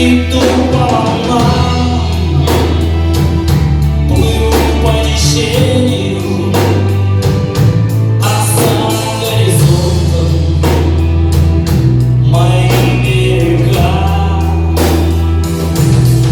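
A rock band playing live: drum kit hits, bass notes, and singing voices without clear words.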